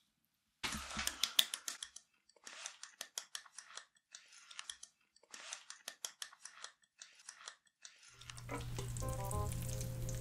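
Crunchy chewing close to an ASMR microphone: clusters of crisp crackles and clicks that come in bursts with short pauses between them. About eight seconds in, background music comes in.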